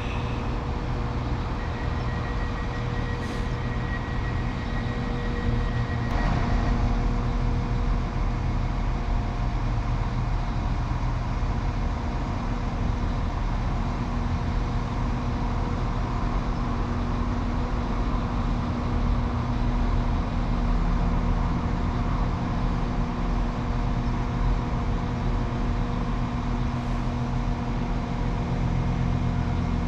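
Class 195 diesel multiple unit standing at the platform with its engines idling: a steady low drone carrying several held tones, a little louder from about six seconds in. A thin high steady tone sounds for about five seconds near the start.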